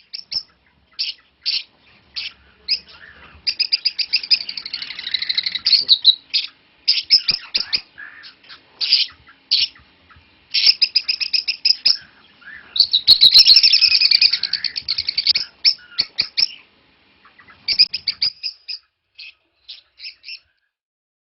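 Parrots chirping: rapid runs of short, sharp, high-pitched chirps in bursts with brief pauses, busiest twice, about four to six seconds in and again about thirteen to fifteen seconds in.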